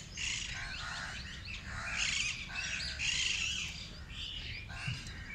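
Several birds chirping and calling together: a dense mix of short, high chirps, with a few harsher, lower calls now and then.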